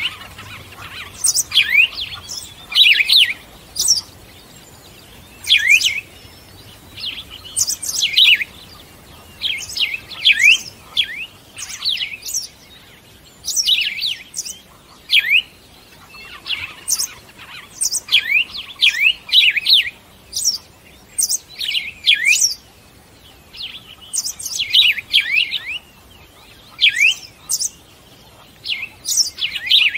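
Birds chirping: short, quick chirps that fall steeply in pitch, coming in little clusters every second or two.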